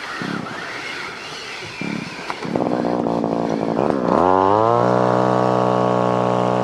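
A small engine starts up about two and a half seconds in, with a quick run of even pulses. Its pitch dips and then climbs, and it settles into steady, loud running.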